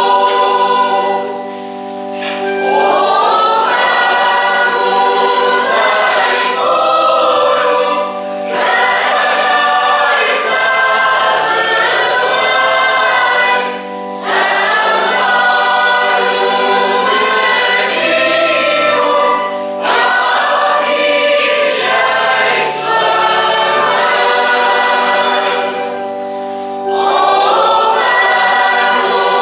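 Church choir singing a hymn over held accompanying chords, in long phrases with brief pauses between them.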